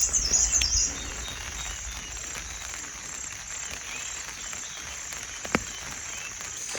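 Crickets trilling in a steady high-pitched drone over a low background hiss, with one sharp click about five and a half seconds in.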